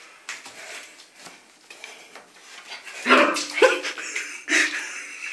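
German shepherd puppy barking: quiet for the first few seconds, then a run of short barks starting about three seconds in.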